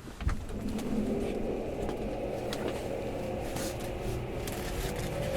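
Tokyo Metro 05 series train with a Mitsubishi IGBT VVVF inverter drive, heard from inside the car as it pulls away and accelerates. A sudden jump in noise comes just after the start, then steady running rumble with a few clicks, and near the end the traction motor whine begins to rise in pitch.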